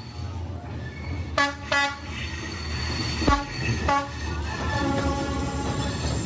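Diesel locomotive of a passenger train rumbling past at very close range. It gives two short horn toots about a second and a half in, then there is a sharp clank, and another brief toot near the four-second mark. A steady ringing tone follows as the coaches roll by.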